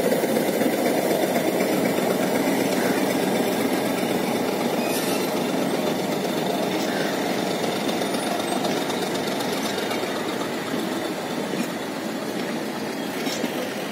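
Nilgiri Mountain Railway metre-gauge passenger coaches rolling past on the track: a steady rumble of wheels and running gear that fades slowly, with a couple of faint clicks.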